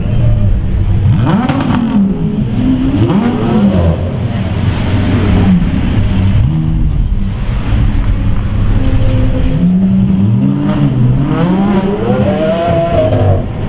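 Lamborghini Aventador's V12 engine revved again and again in short blips inside a concrete tunnel. Each rev rises and falls in pitch, and a longer climb near the end rises higher before dropping away.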